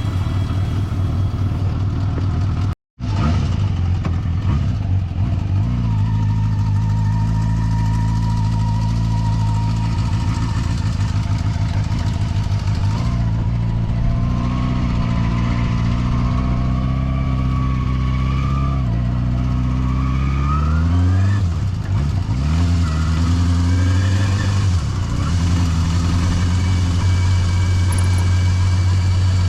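Yamaha FZR250 inline-four engine running under way. The engine note holds fairly steady, steps up in pitch midway, then rises sharply and drops back about 20 seconds in. The sound cuts out briefly about 3 seconds in.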